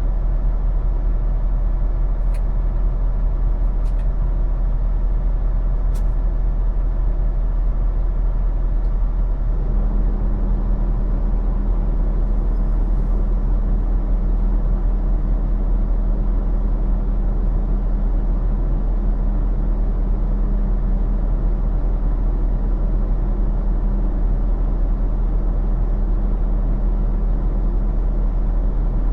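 Semi truck's diesel engine running steadily with a deep hum; about ten seconds in a new steady higher hum joins and stays. Three faint sharp clicks in the first six seconds.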